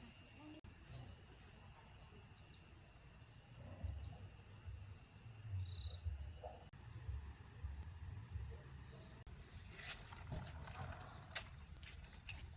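Steady high-pitched chorus of insects, with a low rumbling underneath and a few clicks in the second half.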